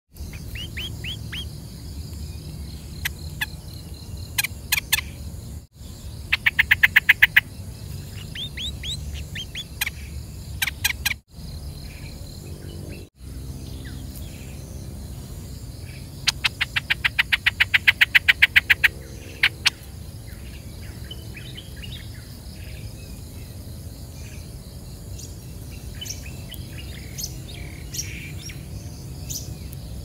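Small songbird chirping: two quick runs of short, high chirps, about ten a second, about ten seconds apart, with scattered single chirps between, over a steady low background hum.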